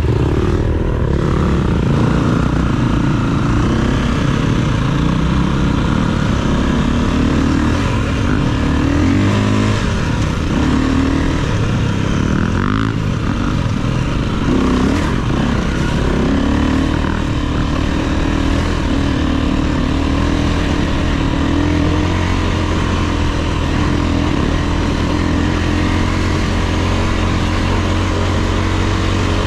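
Dirt bike engine running under a rider, the revs rising and falling in short pulls through the first part, then holding a steadier note near the end.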